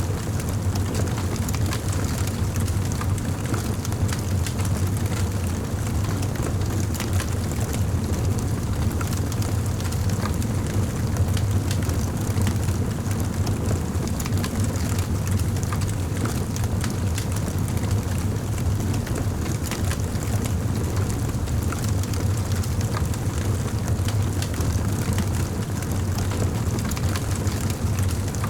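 Wood fire crackling in a fireplace: many small pops and snaps over a steady low rumble.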